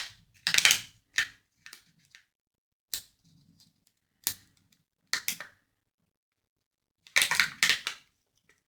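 Kinder Joy egg being opened by hand: its wrapper and plastic capsule crinkling and cracking in short, separate bursts, with a longer run of crackling near the end.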